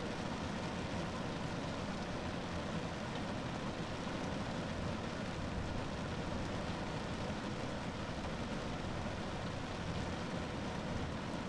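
Steady rain drumming on a car roof: a dense, even patter of drops with a low rumble underneath, unchanging throughout.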